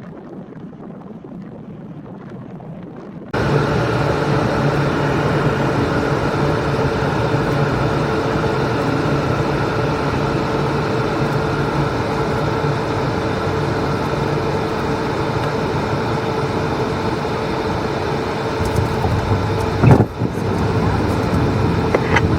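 After a sudden start a few seconds in, a loud, steady rush of aircraft engine and airflow noise runs with a constant drone, broken by a single sharp thump near the end, the kind a hard touchdown makes.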